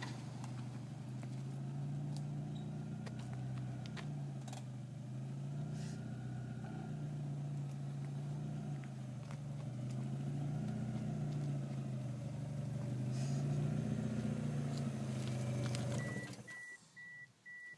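Mazda MX-3's engine idling steadily, its low hum gently swelling and easing. It stops suddenly near the end, and a run of short high beeps follows.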